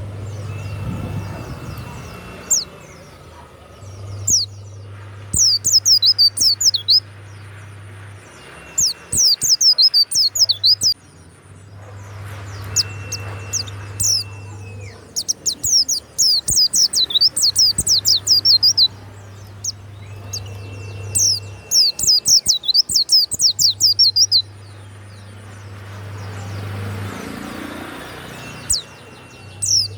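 Pleci (white-eye) singing in repeated loud bursts of rapid, very high-pitched chirping trills, each burst about two to three seconds long, coming roughly every four seconds. Between bursts a steady high whistled note recurs, dipping at its end, over a low hum.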